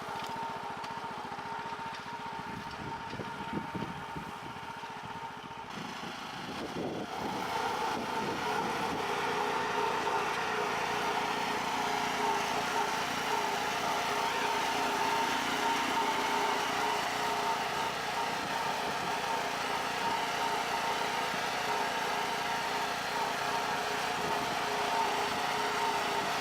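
Small engine of a homemade garden tractor running steadily, growing louder about seven seconds in and holding there.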